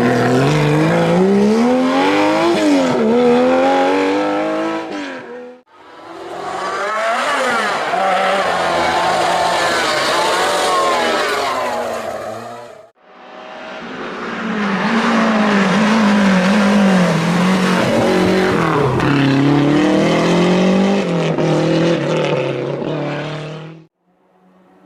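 Historic rally cars' engines at full throttle, revving up and falling back through gear changes. Three separate runs are cut together, with sudden breaks about five and a half and thirteen seconds in.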